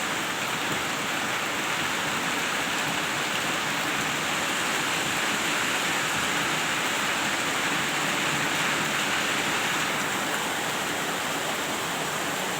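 Heavy rain falling steadily: a dense, even hiss of downpour with no letup.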